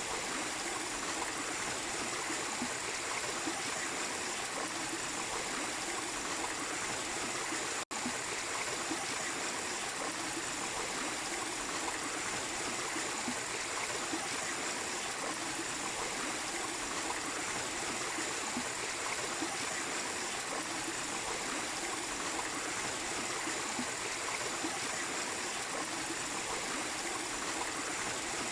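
Small waterfall splashing and running steadily in a stream, broken by a split-second gap about eight seconds in.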